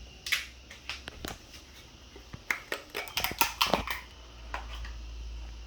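Sharp clicks and knocks of a pan and stove being handled as the frying oil is set to preheat, thickest around the middle. A low steady rumble starts about two thirds of the way in.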